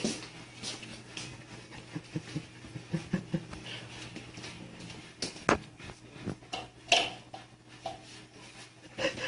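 A cat eating: irregular short clicks and smacks of chewing, with a steady low hum underneath.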